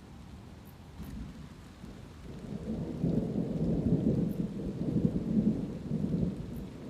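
Thunder rumbling low, swelling about two and a half seconds in and dying away near the end, over light steady rain.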